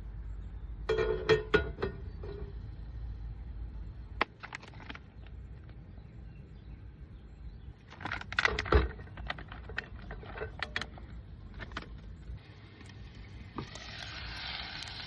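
Clinks, knocks and scrapes of cookware and utensils being handled during outdoor cooking, in two bursts, one about a second in and one around eight seconds in, with scattered single clicks between. A steady hiss starts near the end.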